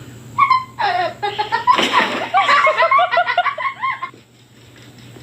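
A person laughing in quick, high-pitched peals that die away about four seconds in.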